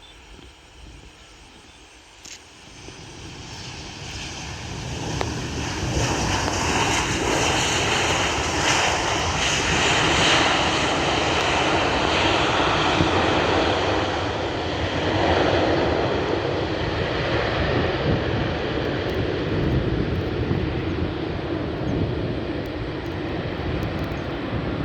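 Jet airliner's engines, rising over the first few seconds as the aircraft approaches, then staying loud and steady.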